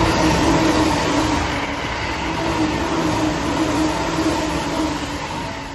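JR East E657 series limited express passing through the station at high speed. A loud, continuous rush of wheel and running noise carries a steady hum, easing slightly toward the end.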